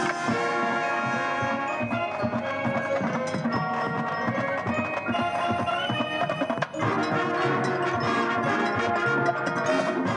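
Marching band playing its field show, with bright mallet percussion such as chimes and glockenspiel standing out over held band chords. The sound breaks off for a moment about two-thirds of the way through, then the full band comes back in.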